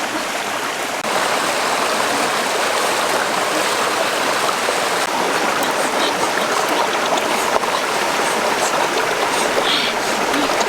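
Steady rushing of a flowing stream, getting a little louder about a second in.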